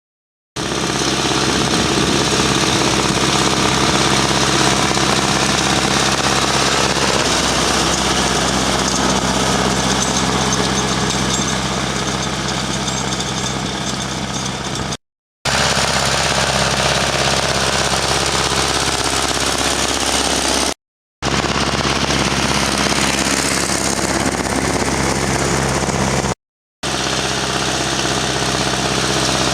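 Ursus C-360 tractor's four-cylinder diesel engine running steadily under load, pulling a field cultivator. The sound drops out three times for a moment and resumes unchanged.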